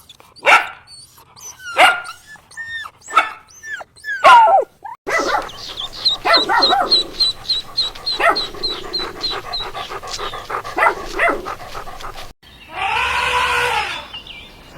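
Dog barking and yipping in short, sharp calls, followed by other animal calls in quick cuts, one of them a series of arching, rising-then-falling cries near the end.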